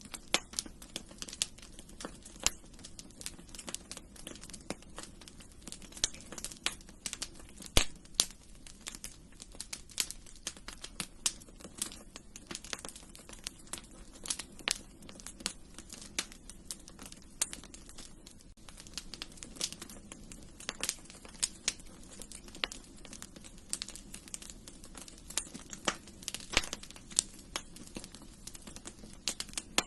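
Wood fire in a fireplace crackling: irregular sharp pops several times a second, a few of them much louder, over a steady low rush.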